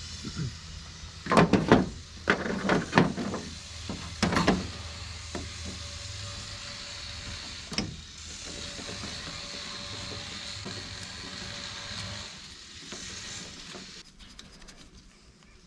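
Carburetor parts knocked and tapped together during disassembly, a cluster of sharp knocks in the first few seconds and one more click a little later. Then a steady hiss lasts about five seconds.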